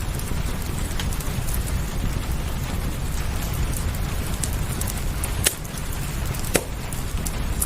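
Steady rain mixed with a wood fire crackling in a fireplace, with scattered sharp pops; the loudest pops come about five and a half and six and a half seconds in.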